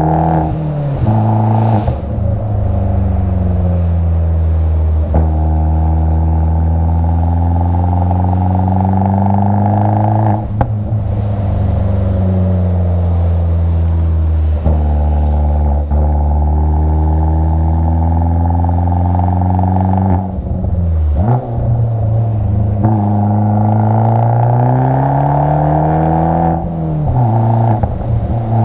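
Abarth 500's turbocharged four-cylinder engine pulling hard through a run of tight bends, its note climbing and falling with the throttle and dropping off briefly about five times at shifts or lifts.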